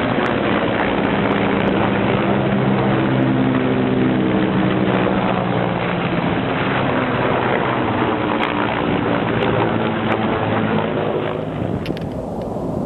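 Helicopter flying, its rotor and engine giving a steady droning hum with several pitched tones. About eleven seconds in it cuts to wind blowing on the microphone.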